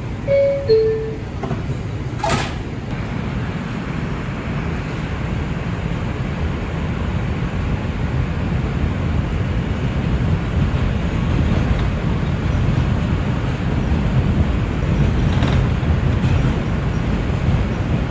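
Two-tone descending door chime of an R142 subway car, a sharp thud of the doors shutting about two seconds in, then the low rumble of the train on the rails growing steadily louder as it pulls out and gathers speed.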